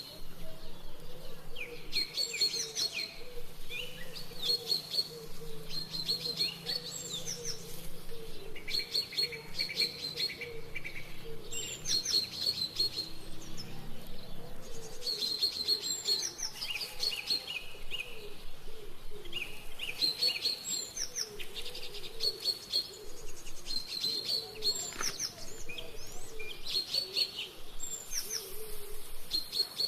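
Songbirds singing: short phrases of high, rapid chirps repeated about every two seconds.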